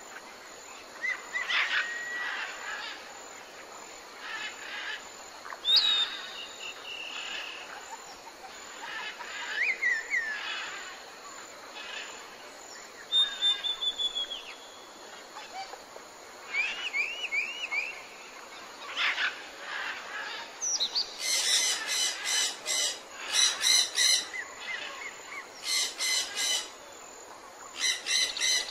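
Birdsong: several songbirds calling, separate high whistles and sweeping chirps every few seconds over a faint steady outdoor hiss, then from about two-thirds of the way through a fast series of repeated high chirps in several bouts.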